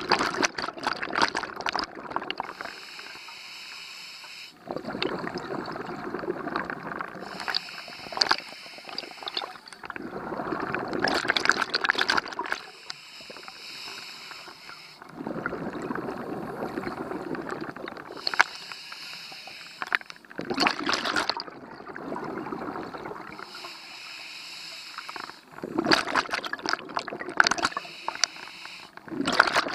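Scuba diver breathing through an open-circuit regulator underwater: a hissing inhale through the regulator alternates with a burst of bubbling exhaust, about every five seconds.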